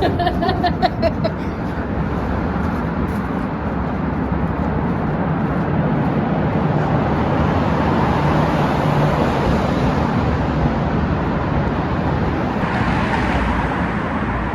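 Steady rushing of air moving through a cold rock tunnel, with a few clicks in the first second or so.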